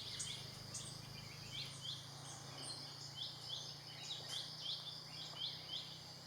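Outdoor natural ambience: short rising chirps repeat irregularly, two or three a second, over a steady high insect drone and a low steady hum.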